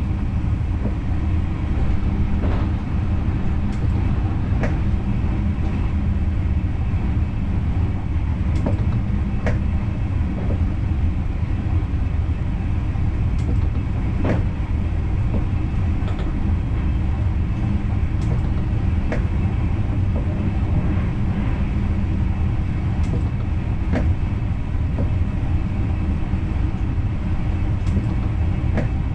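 Dutch NS Intercity train running along the track, heard from inside the driver's cab: a steady low rumble with scattered sharp clicks every second or two.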